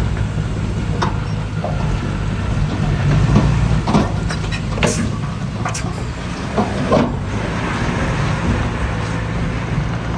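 Heavy diesel earthmoving machinery running steadily with a low drone, with several sharp metallic clanks and knocks through it.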